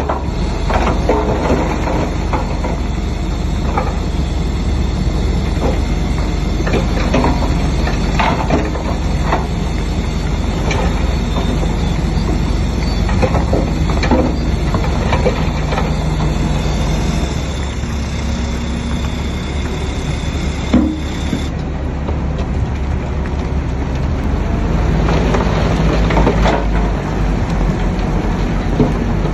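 Heavy diesel earthmoving machinery running steadily, most likely a crawler bulldozer working, with irregular knocks and clanks from the tracks and material.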